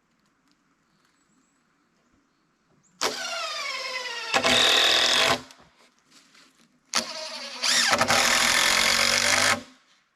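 A power drill run twice, each run about two and a half seconds. The pitch drops and the sound gets louder partway into each run as the drill comes under load, then it stops sharply.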